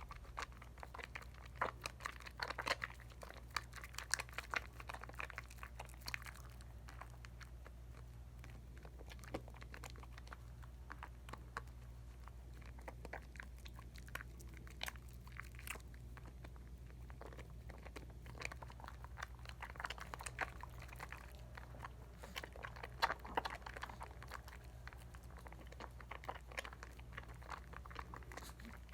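Lather of Dial coconut bar soap being worked by hand: wet squishing and fine crackling of bubbles popping, busier near the start and again a little past the middle.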